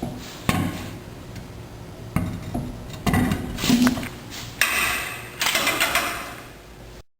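About six sharp metallic knocks with clatter between them as the brake drum is worked and seated onto the drum brake assembly. The sound cuts off suddenly near the end.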